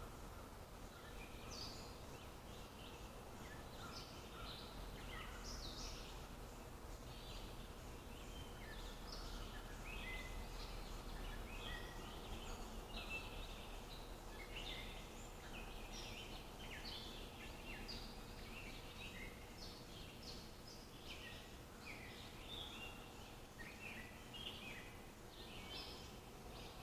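Many small birds chirping, short high notes from several birds overlapping throughout, over a faint steady low background hum.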